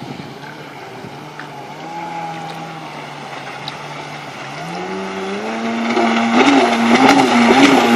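Two-stroke engine of a Kawasaki 750 SXi stand-up jet ski running steadily, then rising in pitch about halfway through and getting louder, its pitch wavering near the end.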